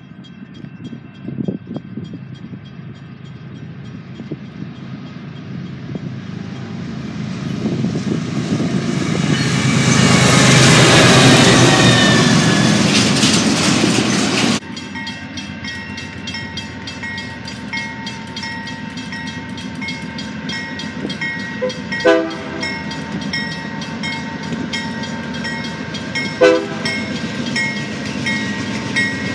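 A freight train drawing near and passing close by, growing louder, with its horn sounding and falling in pitch as the locomotive passes, then the rumble of double-stack container cars rolling past. About halfway through the sound cuts off abruptly to a second approaching freight train, with a bell ringing steadily over wheel clatter and two brief thumps.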